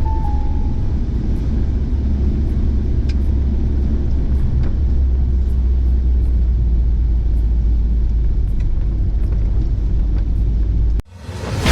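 Steady low rumble of a Suzuki Vitara 4x4 being driven, heard from inside the cabin. Near the end it cuts off abruptly and a loud, noisy burst begins.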